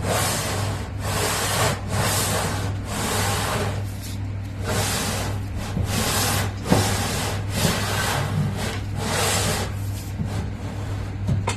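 A 4-inch magnetic duct scraper on poles scraping grease from the metal wall of a kitchen exhaust duct, in repeated strokes about one a second. A steady low hum runs underneath.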